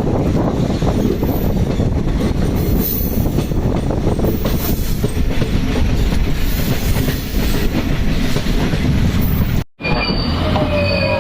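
Passenger train coaches rolling along the track, heard from on board as a steady rumble. About ten seconds in the sound breaks off briefly, then a high steady wheel squeal sets in.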